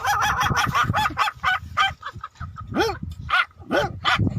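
A man imitating a small dog's high-pitched yapping: a quick run of short yaps, then a few longer yelps that rise and fall.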